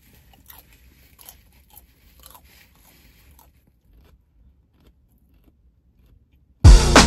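A person chewing a bite of thin-crust salad pizza, with faint crunching for the first three seconds or so. A short, loud burst of music cuts in near the end.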